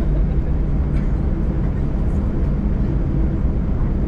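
Steady low rumble of an airliner heard from inside the passenger cabin: engine and airframe noise with no change in level.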